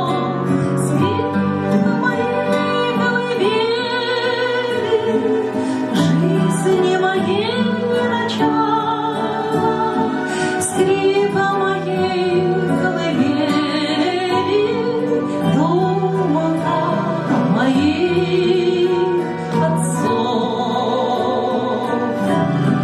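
A woman singing a slow song with wide vibrato over sustained instrumental accompaniment.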